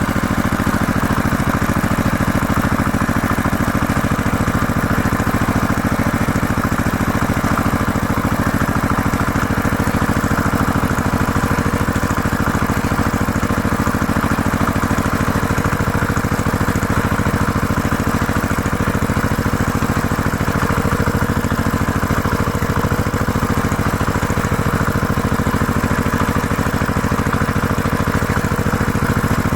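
Tractor engine running steadily at an even speed, with no revving or change in pitch.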